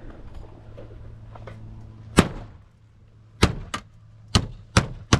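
Nails being driven to fasten roof flashing: one sharp strike about two seconds in, then a run of five more at roughly two a second, over a low steady hum.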